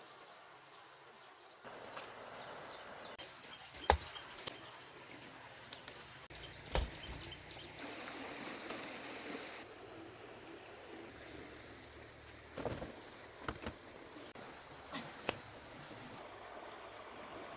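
A steady, high-pitched insect chorus of cicadas or crickets, broken by a few sharp knocks, the loudest about four seconds in.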